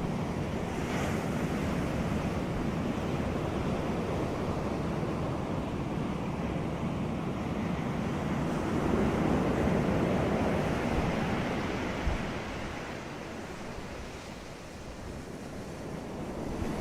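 Ocean surf washing onto a beach: a steady rush that swells louder about halfway through, then ebbs before building again near the end.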